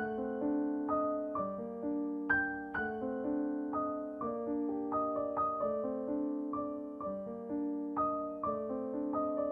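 Solo piano music: a steady, unhurried flow of struck notes ringing over one another in the middle register.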